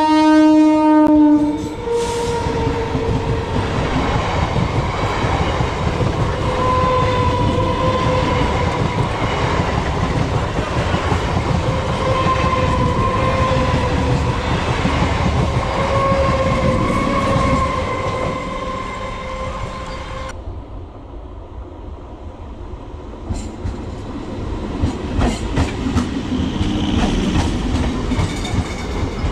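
Indian Railways electric local trains (EMUs). One sounds its horn in a blast that ends about a second and a half in, then passes close by with a rumble of wheels and a steady hum. About two-thirds through there is a sharp change to a quieter passing train whose wheels click over the rail joints.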